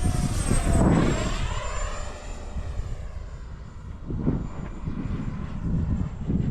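Freewing F-22 Raptor RC jet's 70mm electric ducted fan whining as it flies past, the high whine sliding down in pitch over the first couple of seconds. A low rumble runs underneath.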